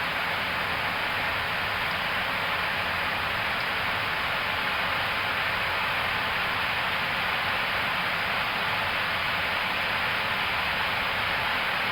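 Steady rushing cockpit noise of an Airbus A321neo in climb, mainly airflow over the airframe at speed.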